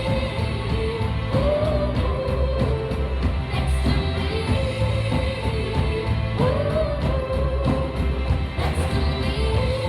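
Live pop-rock band playing: a sung melody with held notes over drums and bass.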